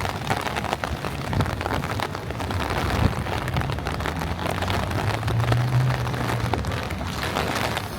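Rain pattering in a dense crackle of drops, with low rumble from wind on the microphone. A low hum swells and fades a little after the middle.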